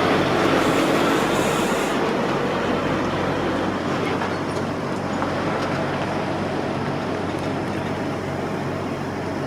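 Diesel lorry engine running with a steady low drone under a continuous rush of heavy traffic, with a high hiss in the first two seconds.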